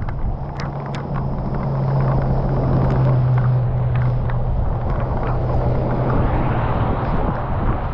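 Car driving: a steady engine and road drone that swells about two seconds in and fades after about six seconds, with scattered faint ticks.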